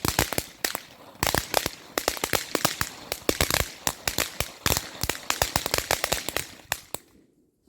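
A consumer firework from a Big Family Pack going off: a rapid, irregular string of sharp bangs and crackles, several a second, that dies out about seven seconds in.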